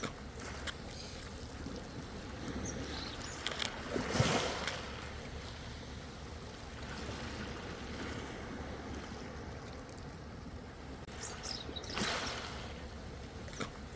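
Ocean waves washing in steadily, with louder splashes about four seconds in and again near the end.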